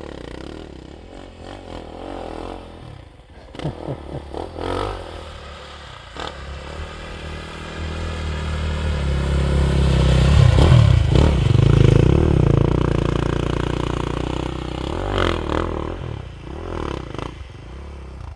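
Snow bike (a dirt bike on a track-and-ski kit) engine running and revving, with a few clattering knocks in the first several seconds. It grows louder to a peak about ten to twelve seconds in, then fades.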